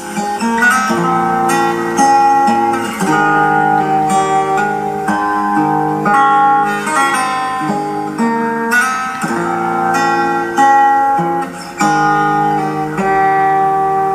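Solo acoustic guitar played fingerstyle: a plucked melody over sustained bass and chord notes, with each new note or chord ringing on as the next begins.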